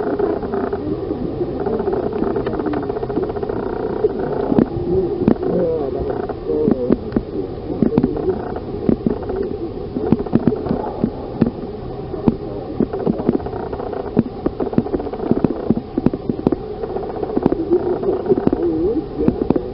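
An indistinct murmur of many voices talking at once, with frequent irregular knocks and rustles close to the microphone.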